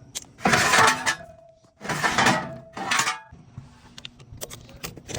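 Metal tools and hardware clanking and rattling as they are taken out and handled, in three loud bursts with small clicks between them.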